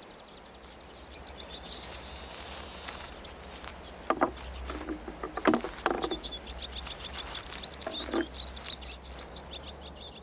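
Mountain wildlife sound: a rapid, steady series of high chirps, with a held high note about two seconds in. Several sharp knocks fall between about four and six and a half seconds, and one more near eight seconds, over a low steady hum.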